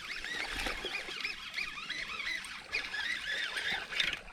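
Birds calling: a rapid, irregular series of short high chirps.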